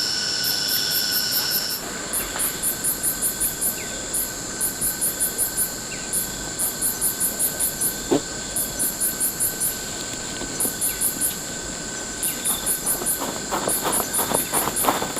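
Insects chirping in repeated trains of rapid high pulses, each train about a second long, over a steady high buzz. Near the end a quick run of knocks or taps joins in.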